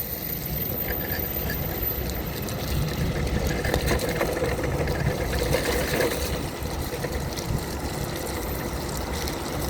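Power wheelchair riding over wet pavement in the rain: a steady rumble and hiss of its motors and tyres on the wet road.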